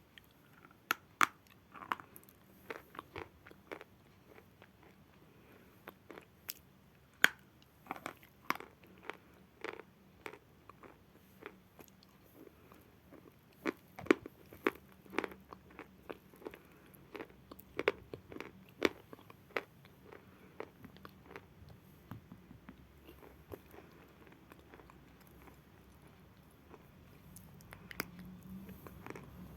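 Lumps of natural chalk being bitten and chewed close to the microphone: irregular, crisp crunches, some of them loud, growing sparser over the last several seconds.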